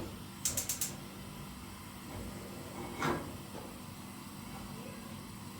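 A quick run of four light clicks under a second in, then a single knock about three seconds in, over a faint steady hum.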